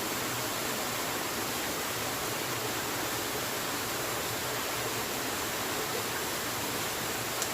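Steady rushing of water, an even hiss with no rise or fall, and a single faint tick near the end.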